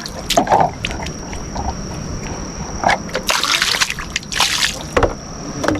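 Water splashing and sloshing in irregular bursts as feet are washed, with two longer splashes past the middle.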